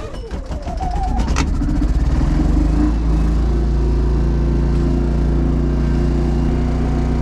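Small gasoline generator engine catching and starting with the choke partly on, climbing in pitch over the first couple of seconds, then running steadily.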